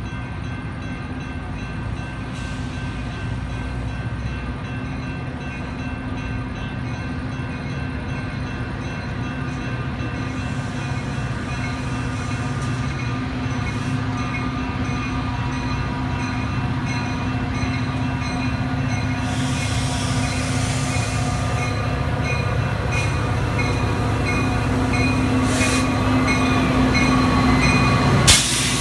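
Train running, a steady drone with several held tones that grows gradually louder, with a short hiss about two-thirds of the way through and a sharp click near the end.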